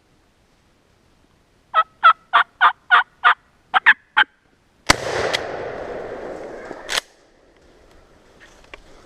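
Wild turkey calling: a run of about eight evenly spaced loud notes, then three quicker ones. About five seconds in, a sudden loud rush of noise begins, fades over about two seconds and cuts off sharply.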